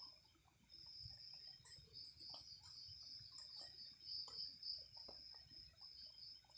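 Crickets trilling in a steady, pulsing, high-pitched night chorus that breaks off briefly about half a second in, with faint scattered ticks and clicks beneath.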